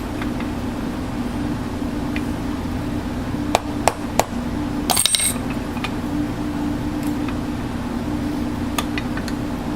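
A steady mechanical hum throughout, with a few sharp clicks in the middle and a brief ringing metallic clink about five seconds in.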